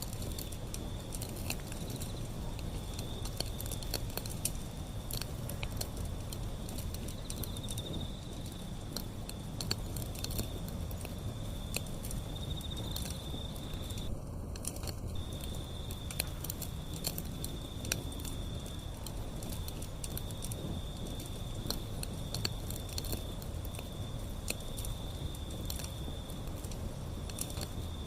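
Wood fire burning, with frequent irregular sharp crackles and pops over a steady low rumble. A thin, steady high-pitched whine runs alongside and drops out for about a second midway.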